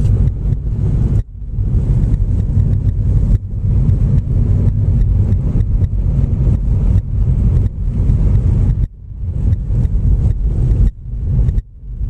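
Car cabin noise while driving: a steady low rumble of engine and road, with a few brief sudden drops in level.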